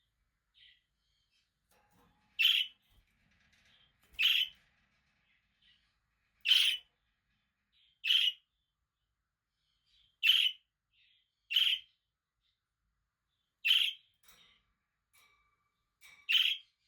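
Budgerigars (pet parakeets) chirping: eight short, loud chirps come every one and a half to two seconds, with fainter soft chirps between them.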